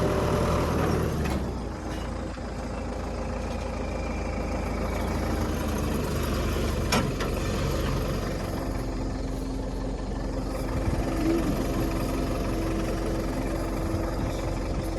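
Motor vehicle engine running with a steady low rumble, its note dropping about two seconds in, and a single sharp click about halfway.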